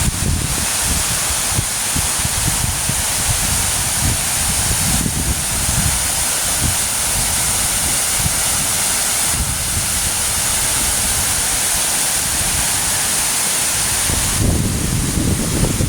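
Steady rush of a waterfall, with wind buffeting the microphone in uneven low gusts that grow a little stronger near the end.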